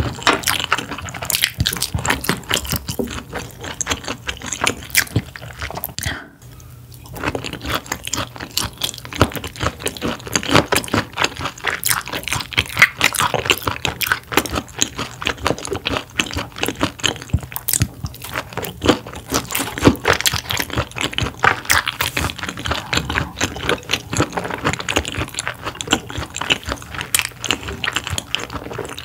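Close-miked chewing of sea bass, a dense run of wet mouth clicks and smacks, with a short pause about six seconds in.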